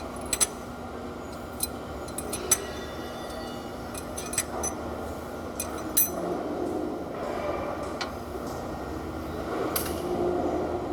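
Sharp metallic clinks and taps of hand tools against engine parts, at irregular intervals over a steady background hum.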